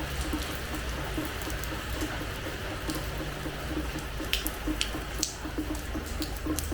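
Rain falling on a terrace floor: a steady hiss with scattered sharp drip ticks, a few louder drops a little past the middle.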